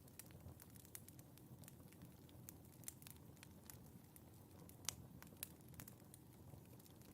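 Wood fire in a fireplace crackling faintly, with irregular small pops and a sharper pop about five seconds in, over a low steady rustle of the flames.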